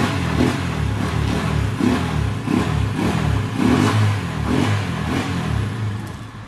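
Rusi Macho motorcycle's air-cooled single-cylinder engine running and being revved in repeated short swells of the throttle, then easing back down near the end. It is running again after the ignition power fault was cured by rewiring the charger and stator.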